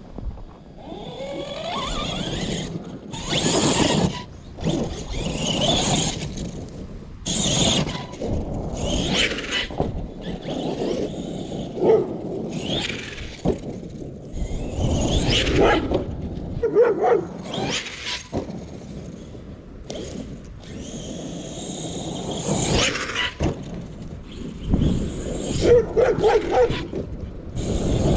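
Electric RC monster truck's motor revving in repeated throttle bursts, the whine rising and falling with each burst, as the wheels spin and throw snow.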